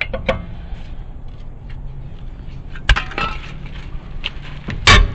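Lug wrench working a seized lug nut on a truck wheel, stuck from long sitting: scattered metal clicks and two sharp bangs. The second bang, near the end, is the loudest, as the nut breaks loose.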